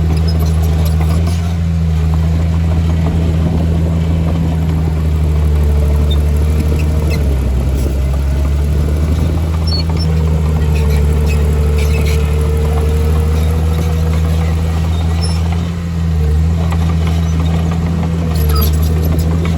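Heavy diesel engine of construction machinery running steadily under load. Its tone dips briefly about seven seconds in and again near sixteen seconds.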